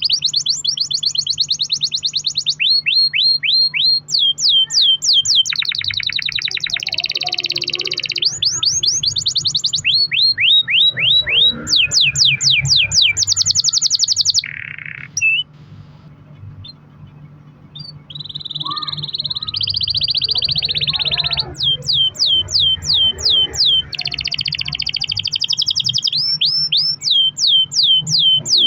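Domestic canary singing long rolling phrases: fast trills and runs of quick falling notes, one after another, with a short pause about halfway through.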